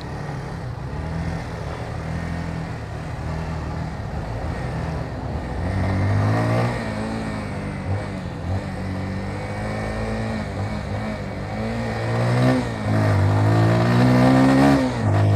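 Motorcycle engine heard from the rider's seat, running steadily at first, then revving up and easing off several times from about six seconds in as it pulls away and shifts, with the strongest rise near the end.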